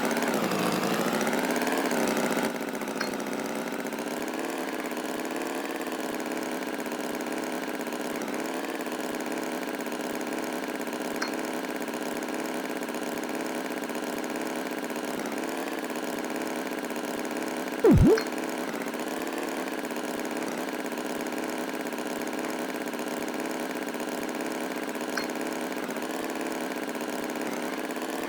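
An engine running steadily at idle, a little louder for the first couple of seconds. About eighteen seconds in, a brief loud swooping sound cuts across it.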